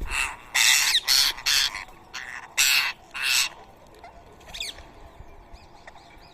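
Rose-ringed parakeets squawking: a quick run of about six loud, harsh screeches in the first three and a half seconds, then fainter short chirps.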